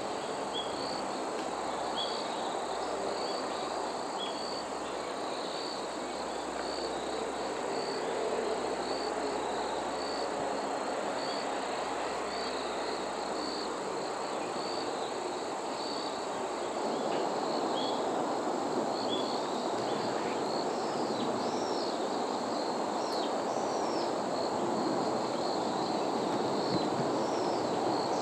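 Autumn insects chirping: short high chirps repeating about once or twice a second over a continuous high-pitched trill, with a steady outdoor noise bed beneath. The chirping grows busier and a little louder past the middle.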